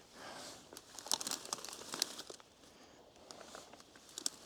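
Dry undergrowth rustling and crackling as someone pushes through it on foot, with a dense run of sharp crackles and snaps about a second in, then fainter scattered ones.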